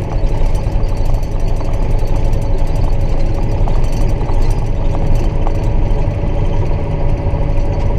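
John Deere 7930 tractor's six-cylinder diesel engine running steadily, heard from inside the cab, with a deep rumble and a steady thin whine over it.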